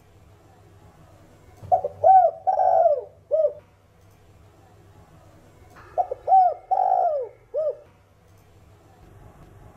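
Spotted dove cooing: two song phrases about four seconds apart, each a quick run of short coos around one longer, drawn-out note.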